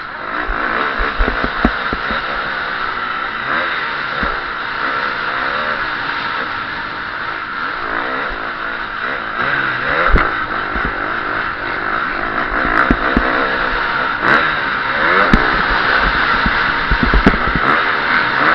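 KTM SX-F 350 four-stroke single-cylinder motocross engine revving hard, its pitch rising and falling over and over as the throttle opens and closes. Short knocks are scattered throughout.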